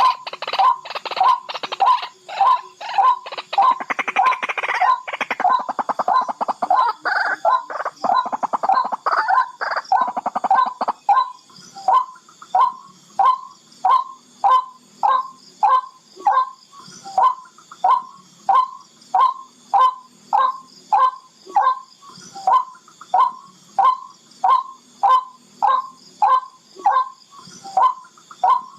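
Barred rail calling: a sharp note repeated steadily, about four every three seconds. From about four to eleven seconds in, a harsher, rapid chattering is laid over the notes.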